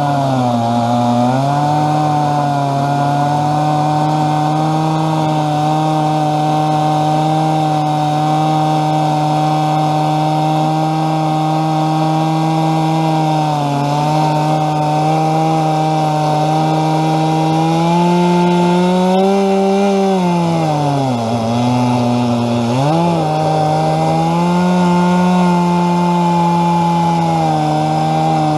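Stihl chainsaw on a chainsaw mill running near full throttle while ripping lengthwise through a log. The engine pitch holds steady and sags briefly as the saw bogs under load, most deeply about two-thirds of the way through, then picks back up.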